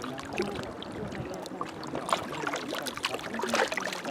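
Small waves lapping and splashing against the shore, a steady wash of little slaps and splashes, with people's voices talking faintly in the background.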